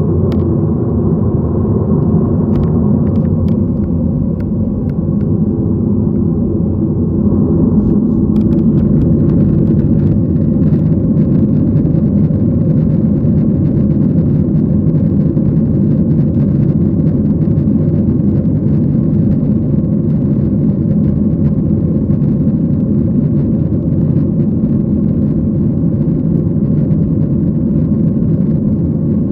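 Airliner cabin noise heard from a window seat: the steady low rumble of the engines and airflow, with a few faint clicks in the first ten seconds and a slight rise in level about eight seconds in.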